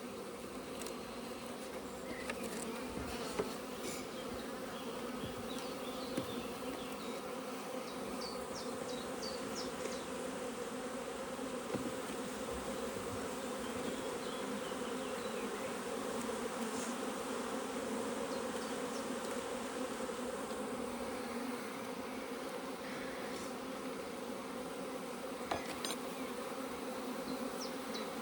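Honeybees from an opened hive buzzing in a steady hum, with a few sharp clicks.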